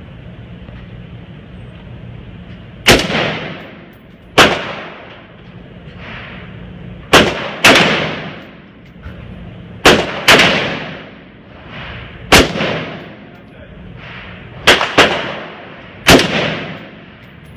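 AR-15 rifle fired semi-automatically: about ten single shots at uneven intervals, some in quick pairs, each followed by a fading echo.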